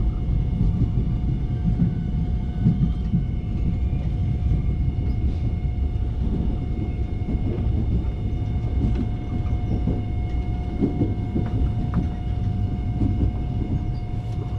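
Seoul Subway Line 1 electric commuter train running at speed, heard from inside the car: a steady low rumble of wheels on the rails, a steady whine over it, and faint scattered clicks.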